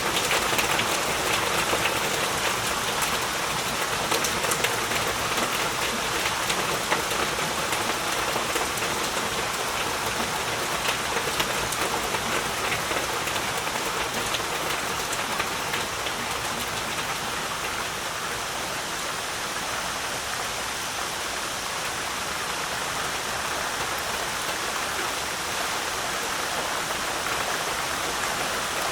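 Heavy rain falling steadily: a dense hiss with many sharp individual drop hits in the first half, easing into a slightly quieter, smoother hiss in the second half.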